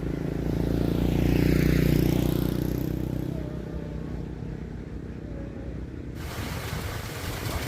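A motor vehicle passing close by, its engine swelling to a peak about two seconds in and then fading away. About six seconds in, the sound changes abruptly to a wider, hissing noise.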